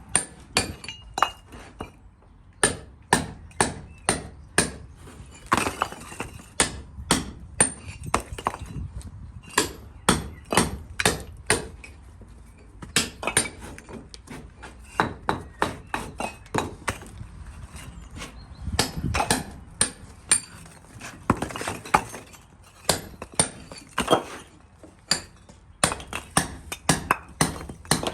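Repeated sharp hammer blows striking something hard, in quick runs of about three a second with short pauses between runs.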